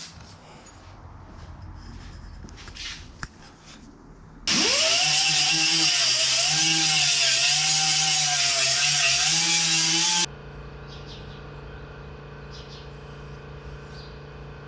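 An electric power tool spins up to speed about four and a half seconds in and runs loud for about six seconds, its pitch wavering as if under load, then cuts off suddenly. A steady machine hum continues after it.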